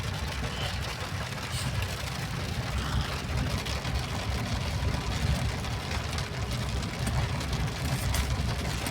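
A vehicle's engine running with a steady low rumble and a noisy hiss above it.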